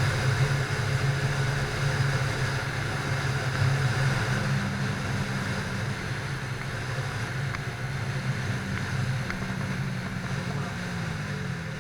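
Motorcycle engine running steadily under speed with wind rushing over the microphone; near the end the engine note falls as the bike slows down.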